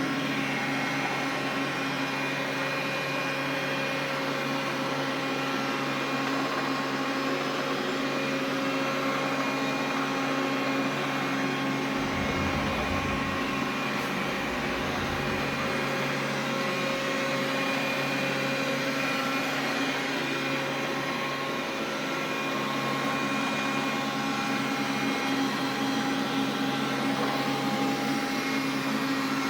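Xiaomi vacuum cleaner running steadily, a hum of several fixed tones over motor noise: the extraneous noise its owner is recording. A low rumble joins in for a few seconds near the middle.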